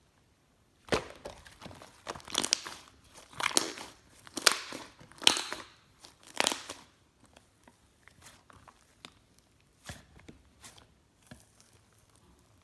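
Slime being pressed and stretched by hand, giving a run of crackling pops and clicks for about six seconds, then only scattered small clicks.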